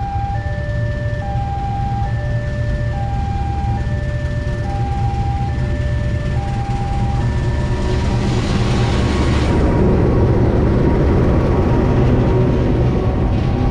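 Level-crossing warning alarm repeating an alternating two-tone chime as a CC206 diesel-electric locomotive approaches. About eight seconds in, the locomotive's engine rumble grows louder with a brief rush of hiss as it passes close by, followed by the coaches rolling past.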